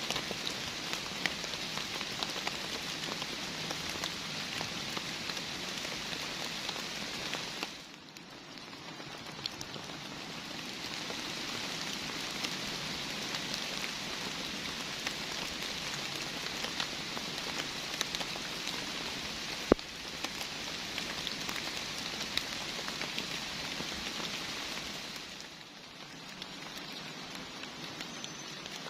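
Heavy rain falling: a dense steady hiss of rain with many tiny drop ticks. It drops in loudness abruptly about eight seconds in and again near the end, and a single sharp tick stands out about twenty seconds in.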